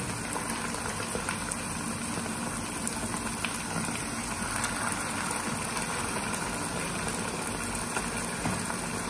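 Chopped vegetables, sauces and oil sizzling steadily in a wok over a high gas flame.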